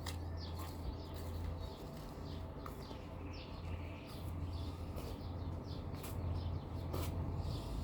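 Many small songbirds chirping and twittering in quick, overlapping short calls, over a steady low hum.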